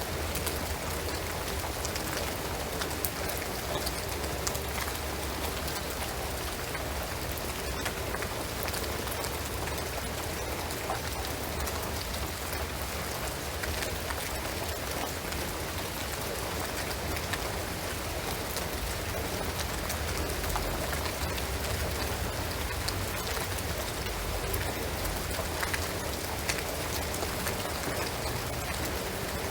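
Steady rain falling on a shingled roof and pine trees, a dense even patter of drops with many small individual drop ticks.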